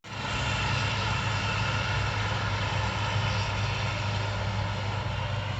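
Tractor engine running steadily, a constant deep hum with engine noise over it.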